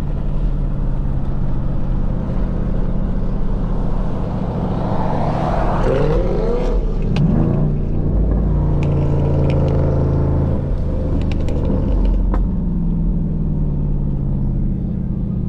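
Steady low rumble of car engines on a cruise. An engine revs up and down a couple of times about six to seven seconds in.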